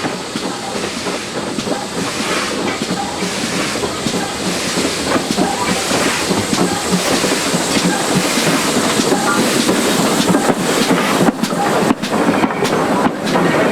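Steam-hauled passenger train behind 2-8-0 tank locomotive No. 4277 running along the line, heard from a carriage: a steady rumble of wheels on rail with clickety-clack, growing gradually louder.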